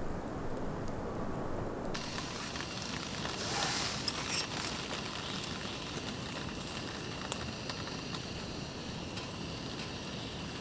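Wood campfire crackling with scattered sharp pops over a steady rushing background; a brighter hiss comes in abruptly about two seconds in.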